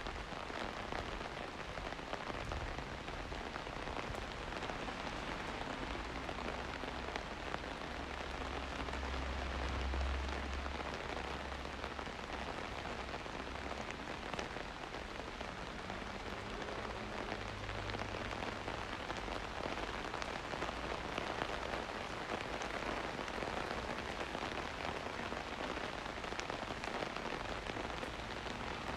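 Steady rain falling, an even hiss with the patter of scattered drops. A low rumble swells and fades twice, about eight seconds in and again near the middle.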